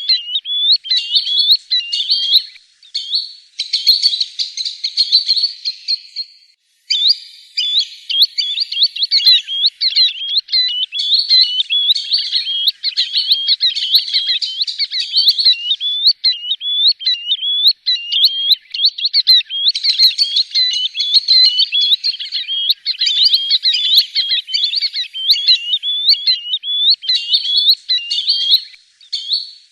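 Green sandpiper calling over and over: a rapid, continuous series of short rising notes, with a brief pause about six seconds in.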